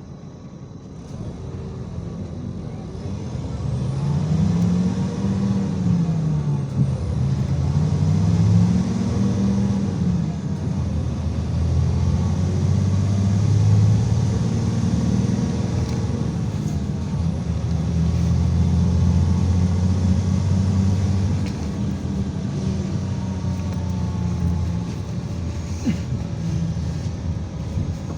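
IVECO Crossway 13M city bus's engine pulling away and gathering speed, its pitch rising and falling several times, then running steadily and easing off a little near the end.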